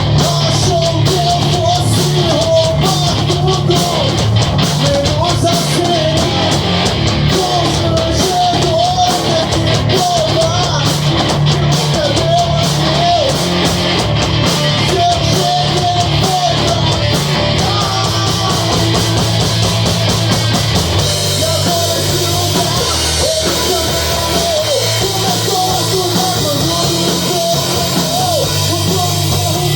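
Rock band playing live: drum kit, guitars and bass in a heavy, punk-edged song. About two-thirds of the way through, the drumming changes to a steady wash of cymbals.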